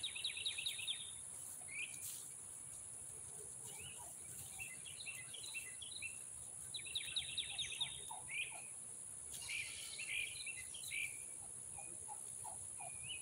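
Wild birds chirping, with quick rapid trills at the start and again around seven seconds in and scattered single chirps between, over a faint steady high hiss.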